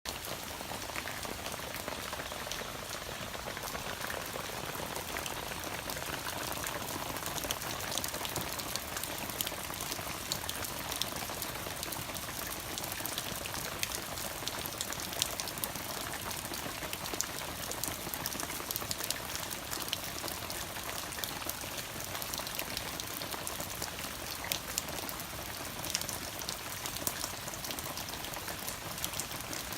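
Heavy rain falling: a steady hiss with many sharp individual drop hits scattered throughout.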